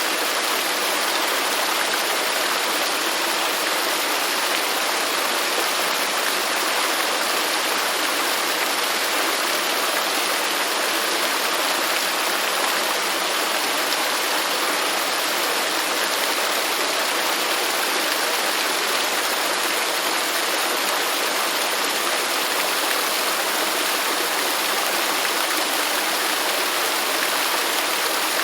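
Waterfall: water falling and rushing in a steady, even hiss with little low rumble.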